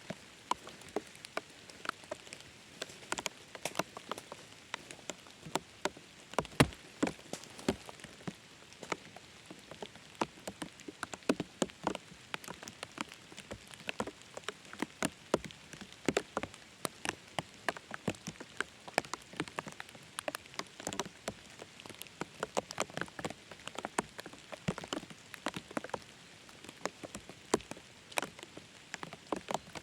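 Rain falling, with many separate drops striking close by at irregular intervals over a steady hiss.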